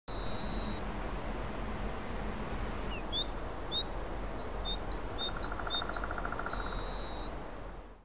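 Small birds singing: a long clear whistled note, scattered quick chirps, a rapid run of short notes past the middle and another long whistle near the end, over a steady background rush. A lower buzzy trill joins a little past the middle.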